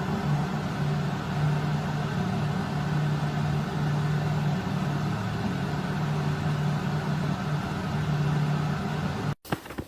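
Steady low motor hum, cutting off suddenly near the end.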